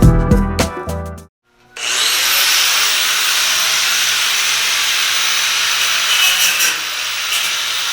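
Background music cuts off about a second in. After a brief gap, a power tool starts cutting into the car's metal frame tubing and runs as a steady, even hiss.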